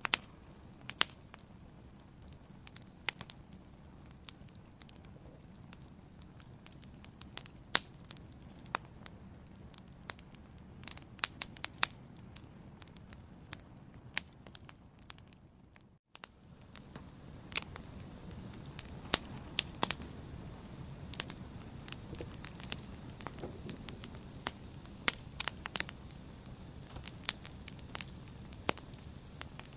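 Wood fire in a fireplace crackling: irregular sharp pops and snaps over a low steady rush of flame. About halfway there is a split-second gap of near silence, after which the rush is a little louder.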